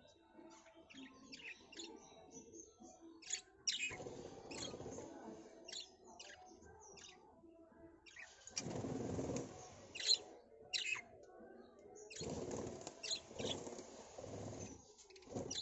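Bee-eater calls: many short, high chirps throughout, with three stretches of rustling noise in between, the first about four seconds in.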